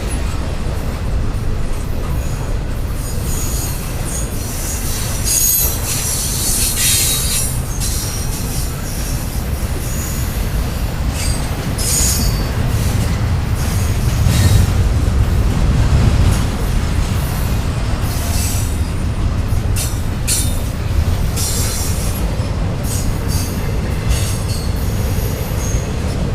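Intermodal freight train of containers and trailers rolling past: a steady low rumble of cars and wheels on the rails, with repeated brief high-pitched wheel squeals throughout and the rumble swelling about halfway through.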